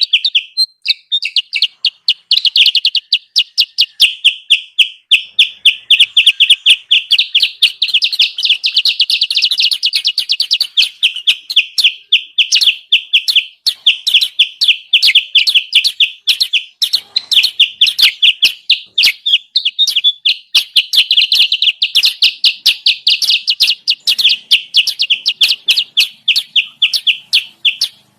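Kutilang sutra bird lure call: a rapid, continuous string of high chirps and twitters, a recording played to draw wild kutilang sutra down to the trapper.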